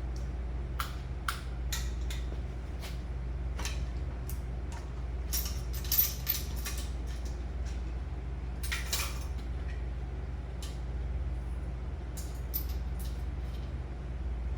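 Metal clicks and clinks of a valve spring compressor and valve keepers being worked while a valve is pulled from the Packard engine, scattered irregular taps with a small flurry in the middle, over a steady low hum.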